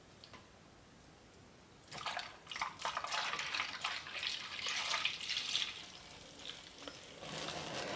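Liquid soap being poured from a crock pot into a bottle, splashing and dripping in irregular spurts, with scattered scrapes and clicks of a spatula against the pot. It starts about two seconds in and fades near the end.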